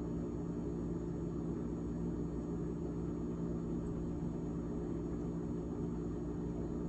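GE refrigerator fan running, a steady hum with several held low tones that does not change.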